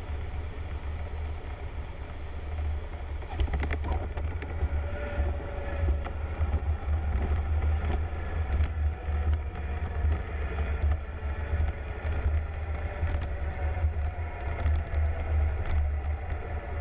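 Cessna 152 cockpit noise on landing, its Lycoming four-cylinder engine throttled back: a steady low drone, with a cluster of knocks about three and a half seconds in and scattered faint clicks.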